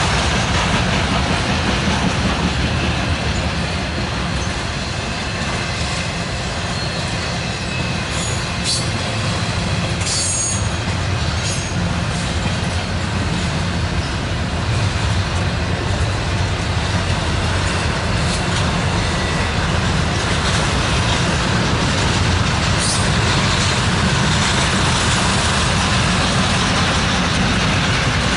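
Norfolk Southern freight train passing close by: a steady loud rumble and rattle of rail cars rolling over the track, with a few brief high-pitched wheel squeals partway through.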